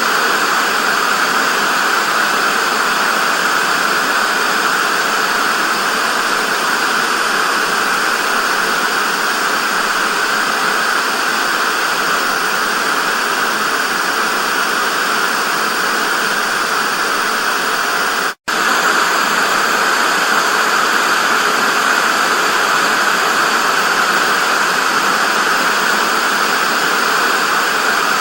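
Analogue TV static: a steady, loud hiss of white noise. It cuts out for an instant about two-thirds of the way through, then resumes unchanged.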